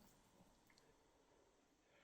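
Near silence: faint room tone of the mine tunnel.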